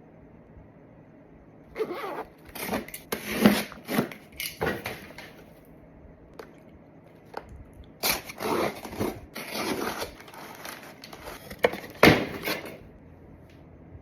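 Packaging being handled and crinkled during an unboxing: rustling, crackling and tearing in two bursts, each lasting a few seconds.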